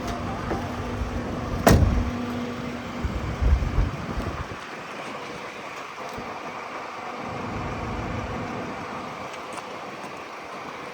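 A refrigerated Mercedes-Benz Sprinter van running, with a sharp knock about two seconds in and a few heavy thumps a little later, after which it settles to a steadier, quieter hum.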